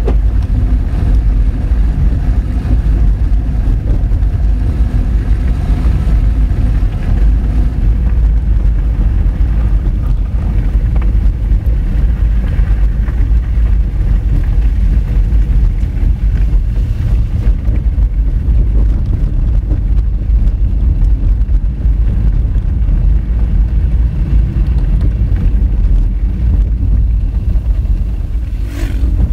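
Honda Fit being driven over a rough gravel road: a steady heavy rumble of tyres and suspension on loose rock, with the engine note underneath. A single sharper knock sounds just before the end.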